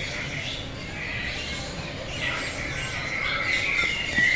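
A chorus of many birds chirping and calling at once, short overlapping chirps running on with no pause.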